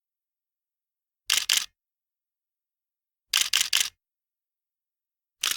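Camera shutter clicking in quick bursts: two shots about a second and a half in, three more in a rapid run past the middle, and one near the end, with dead silence between.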